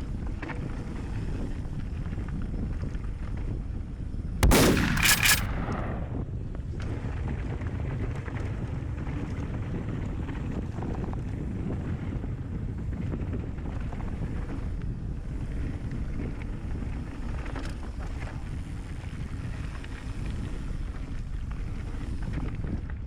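Wind buffeting the microphone and tyre rumble from a mountain bike on a forest trail. About four and a half seconds in there is a sudden loud bang followed by a few quick cracks, over in about a second.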